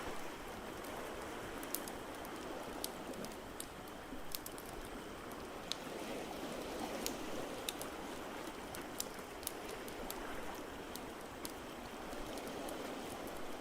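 Wood fire crackling, with sharp pops at irregular intervals, over a steady wash of water noise.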